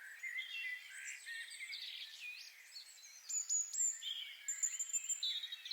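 Several songbirds singing and calling together: a busy mix of high chirps, whistled notes and quick trills.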